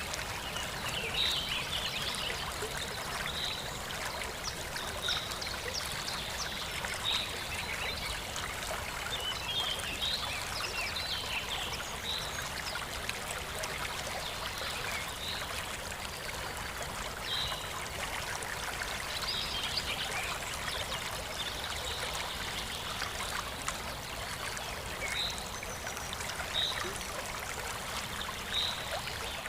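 Steady trickling, running water, with short high chirps repeating every second or two.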